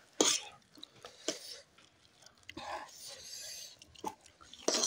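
Close-miked eating: chewing, with a few sharp crunches and clicks from biting into crisp fried pani puri shells.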